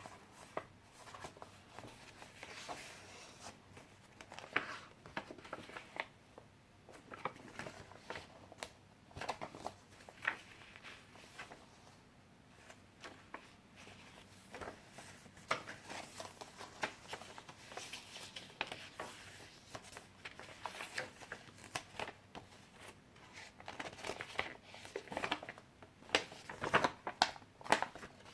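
Pages of a handmade junk journal being turned and handled: irregular paper rustles and soft clicks, with a cluster of louder ones near the end.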